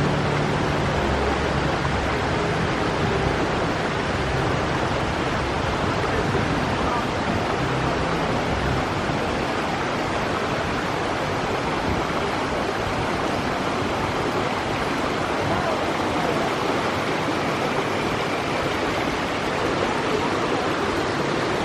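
Creek water rushing over the cliff edge at the top of Elabana Falls, a steady, loud rush of falling water.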